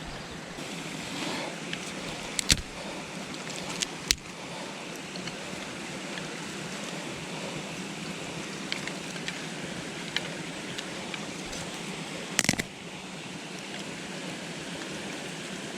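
Steady rush of a stream running close by, with a few sharp knocks, one about two and a half seconds in, one near four seconds and a louder one near twelve and a half seconds.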